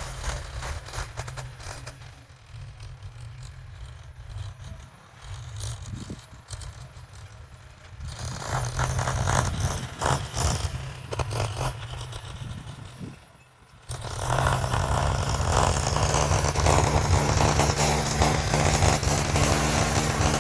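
Heavy machinery engine running with rattling and scraping clatter. About two-thirds of the way through it dips briefly, then comes back louder and steadier.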